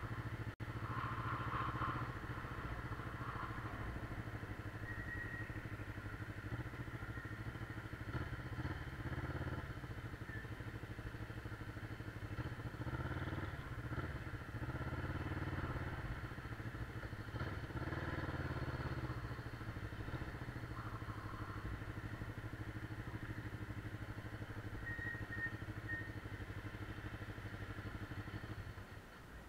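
Motorcycle engine running while riding, steady with a few stretches of higher engine effort in the middle; the sound falls away near the end.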